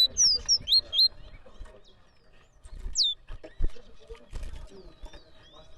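Caged songbird singing: a rapid run of loud, clear whistled notes in the first second, then scattered faint chirps and a single falling whistle about three seconds in.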